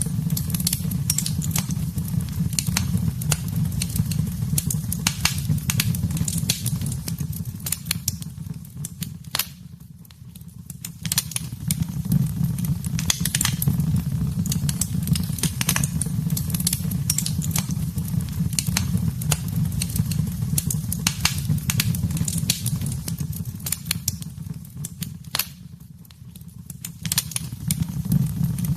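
Wood fire in a fireplace, crackling and popping, over a low steady rumble of the flames. The rumble fades away twice, about a third of the way in and again near the end, while the crackles go on.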